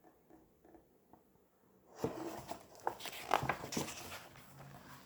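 Paper rustling with a few soft taps as a picture book's page is handled and turned, starting about two seconds in after near silence.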